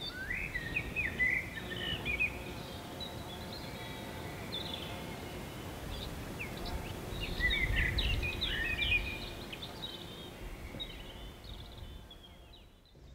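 Songbirds chirping and singing in many short calls over a steady outdoor background noise, with a low rumble swelling about seven to nine seconds in; the sound fades out near the end.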